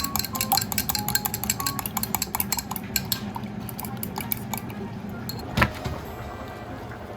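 Dishes and cutlery clinking: a quick run of clinks and taps for about three seconds, then a few scattered clinks and one louder knock near the end.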